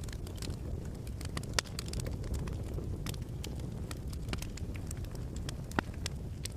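Wood fire crackling in a fireplace: a steady low rumble of flames with irregular snaps and pops, two of them louder, about a second and a half in and near the end.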